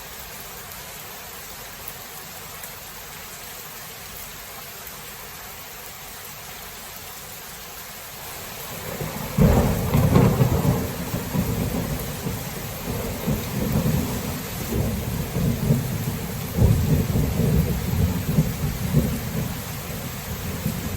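Steady rain falling, then about nine seconds in a thunderclap breaks into a long, deep rolling rumble of thunder that swells again a few seconds later and carries on over the rain.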